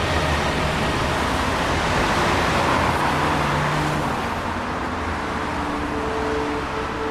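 City street traffic: the steady noise of cars on the road, swelling as one passes about two to three seconds in.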